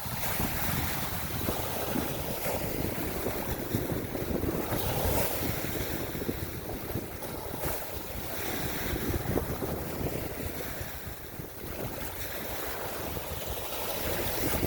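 Wind buffeting the microphone over a continuous wash of waves, swelling and easing every few seconds.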